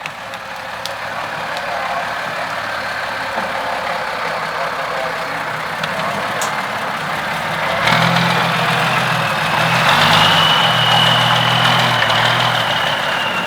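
LIAZ 4x4 trial truck's diesel engine running over a broad rushing noise. About 8 seconds in it pulls harder, and a high whine rises, holds, then eases off near the end.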